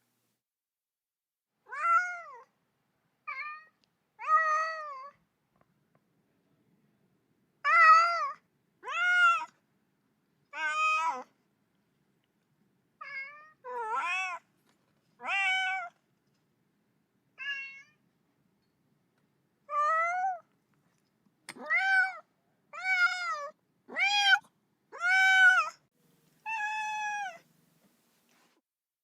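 Kitten meowing over and over, about sixteen short cries, each rising then falling in pitch, with silence between them. The uploader hears it as a lonely kitten calling for its mother.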